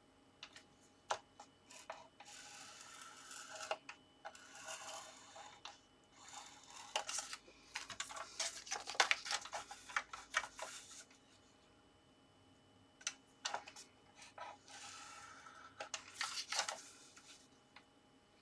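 Scoring tool scraped along card on a scoring board in several strokes, with taps and clicks as the card is handled and repositioned between the strokes.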